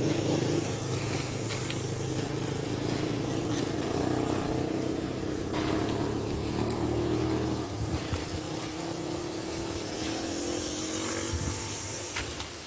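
A motor vehicle's engine running steadily, its pitch slowly falling over several seconds.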